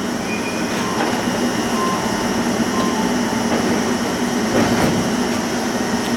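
Electric train's steady running noise with a low hum. A few faint, short chime-like tones sound in the first three seconds.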